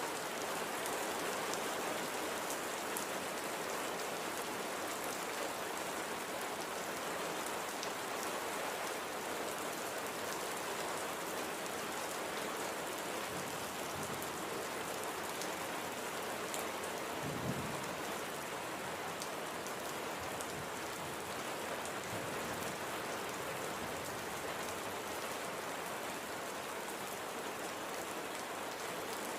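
Steady light rain falling and pattering on surfaces, an even hiss of drops, with one brief low rumble a little past halfway.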